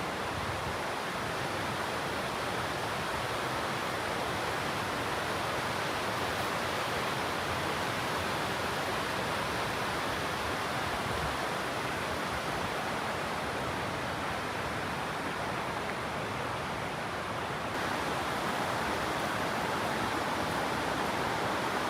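Steady rush of running water, an even hiss with no breaks; near the end it shifts slightly and becomes a little louder.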